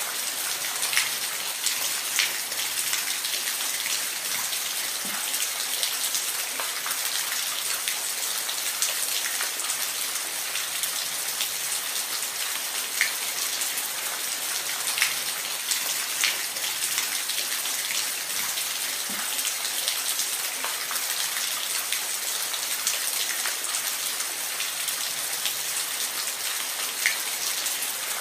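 Steady rain falling, an even high hiss with scattered sharp drip ticks of drops hitting a surface.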